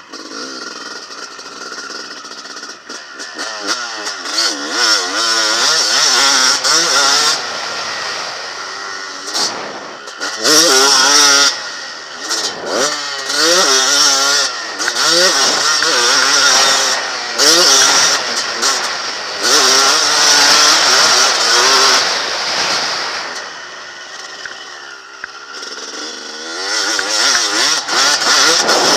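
Honda CR250 two-stroke motocross bike being ridden hard, its engine revving up and dropping off again and again as the rider works the throttle and gears, with quieter stretches off the throttle around 2 s, 9 s and 24 s.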